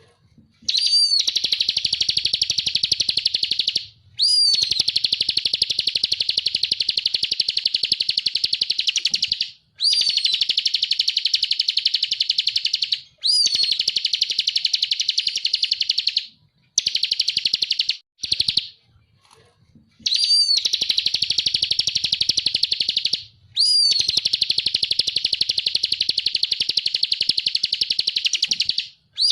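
Ciblek (a prinia) singing its rapid 'ngebren' song: about seven long, fast trills of buzzy repeated high notes, each bout opening with a sharp rising-and-falling note, separated by short pauses.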